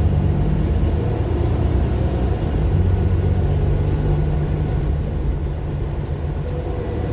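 Mercedes-Benz Citaro LE bus's Daimler OM 457 hLA six-cylinder diesel running, heard from inside the bus as a steady low drone. The engine note eases off slightly after about five seconds.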